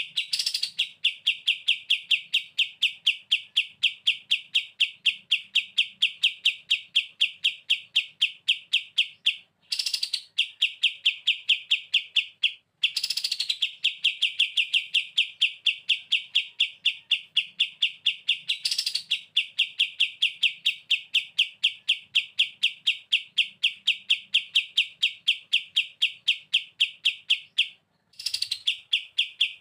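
Kapas tembak bulbul singing its 'bren' song, a long, fast rattling trill of rapid repeated notes. The trill breaks off briefly about 10, 13 and 28 seconds in and restarts each time with a short rising note.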